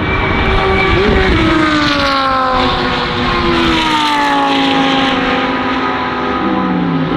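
Lamborghini Huracán Super Trofeo EVO2 race car's V10 engine passing at speed, its note rising briefly about a second in, then falling steadily as the car goes by and away. A second engine note comes in near the end.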